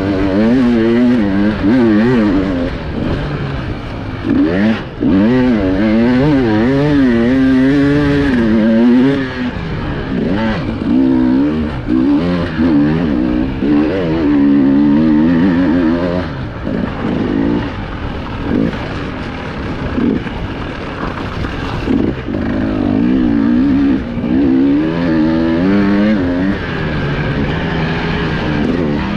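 Enduro motorcycle engine heard from on the bike, revving up and down constantly as the throttle is worked over rough terrain, with brief drops off the throttle.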